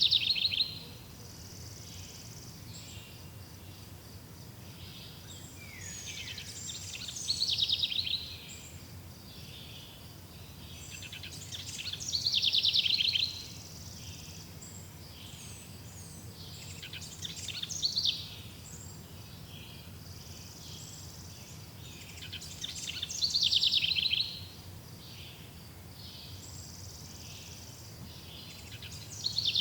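A bird singing the same short, rapid, descending phrase over and over, about every five to six seconds, over a faint steady background of natural ambience.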